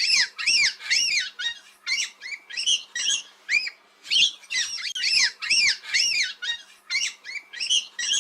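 Parakeet chirping: a fast, unbroken string of short, high-pitched, arched chirps, about three or four a second.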